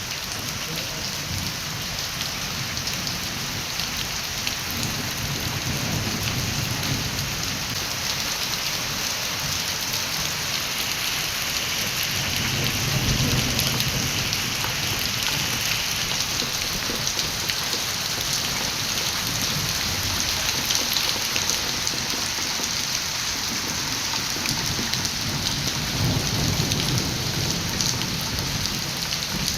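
Steady heavy rain falling and pattering on surfaces, with a low rumble that swells and fades three times.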